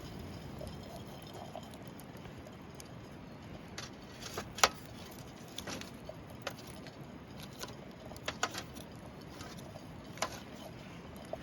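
Wood campfire crackling: a low steady hiss with sharp pops and snaps scattered irregularly through it, the loudest about four and a half seconds in.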